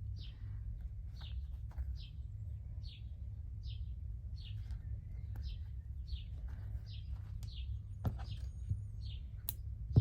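A bird chirping over and over: short, high chirps repeated a little more than once a second, over a steady low hum. A sharp click near the end.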